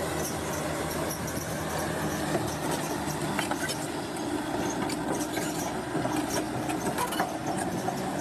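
Bulldozer's diesel engine running steadily, with scattered clanks and squeaks from its steel crawler tracks.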